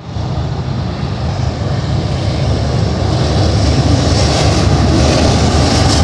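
Double-stack container well cars of a freight train rolling past: a steady low rumble of steel wheels on rail that grows slightly louder.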